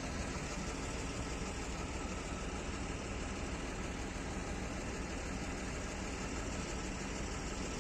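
Tata bus diesel engine idling steadily.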